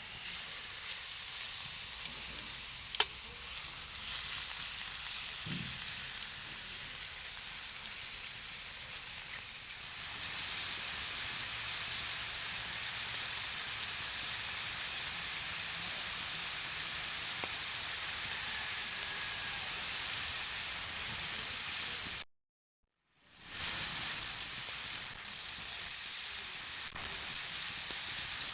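Pork shoulder sizzling in a hot pan, browning for a crust before the peka is covered: a steady hiss that gets louder about ten seconds in, with one sharp click near the start.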